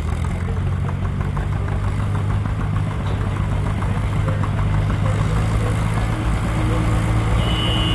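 Large tractor engine idling nearby, a steady low hum that grows slightly louder. A high steady tone joins near the end.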